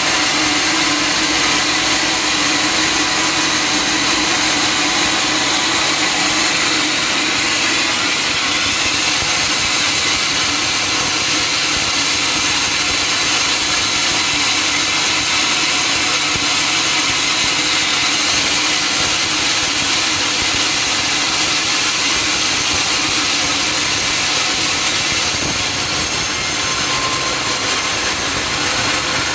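Sawmill saw running steadily as it cuts lengthwise through a teak log, a loud, even hiss of blade in wood over the machine's drive.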